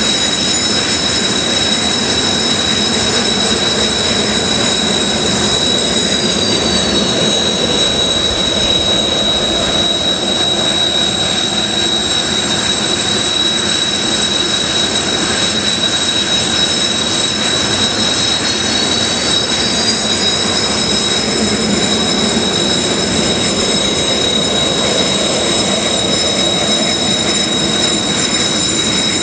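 Kawasaki T-4 jets' turbofan engines whining steadily at taxi power, several high tones together. The pitch of some tones slides down about six seconds in and climbs back up around eighteen to twenty seconds in.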